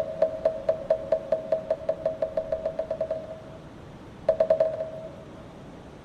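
Moktak, the Buddhist wooden temple block, struck in a roll that speeds up from about three strokes a second to a rapid trill and stops a little past halfway. After a short pause comes one quick burst of about five strokes. Each stroke is a short, pitched knock.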